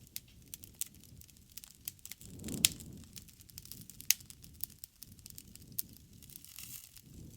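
Wood fire crackling in a fireplace: irregular snaps and pops, the loudest about two and a half seconds in, over a soft low rumble of the flames that swells twice.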